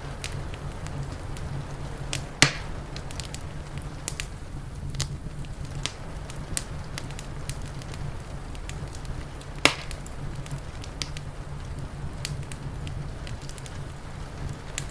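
Wood fire crackling, with many small snaps and two loud sharp pops, one about two and a half seconds in and one near ten seconds, over a steady low rumble.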